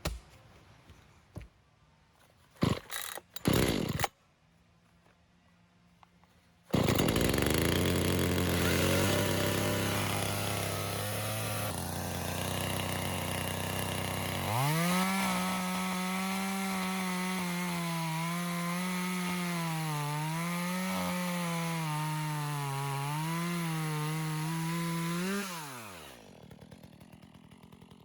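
Two-stroke chainsaw: a few short loud bursts, then the engine catches about seven seconds in and runs loudly. About halfway through it climbs to a higher, wavering engine speed, then near the end it is switched off and winds down with falling pitch.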